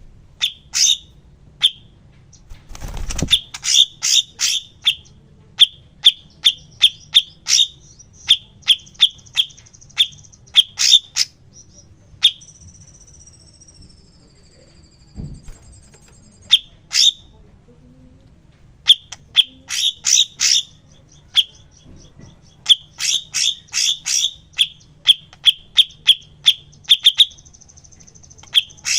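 Cucak cungkok song played as a masteran training recording: rapid runs of sharp, high chipping notes in bursts, with short high buzzy trills and a slow falling whistle in the middle. A brief rush of noise sounds about three seconds in.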